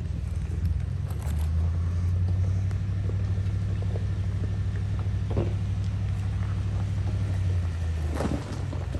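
An off-road vehicle's engine and drivetrain make a low, steady rumble while driving slowly along a dirt trail. It gets louder about a second in and eases off near the end, with a couple of light knocks in between.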